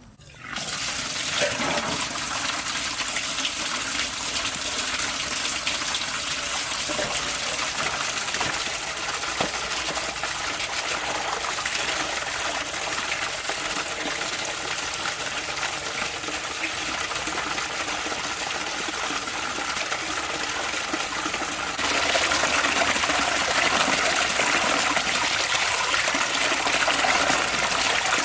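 Water running steadily from a tap. It steps up louder about 22 seconds in.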